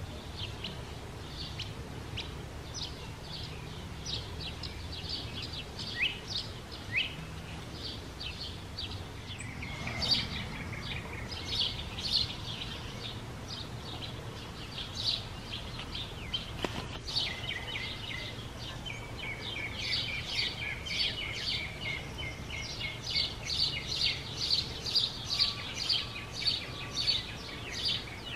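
Songbirds singing and chirping, a busy mix of short notes and quick trills that grows denser in the last third, over a steady low background hum.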